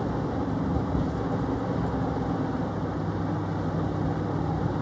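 A vehicle engine running steadily at an even, low speed.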